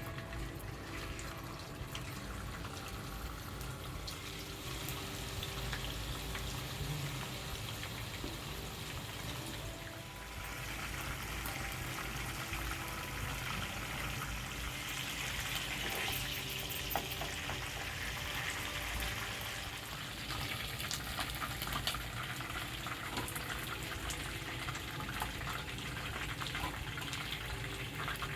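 Food frying in hot oil in a pan: a steady sizzle with many fine crackles, growing a little stronger partway through.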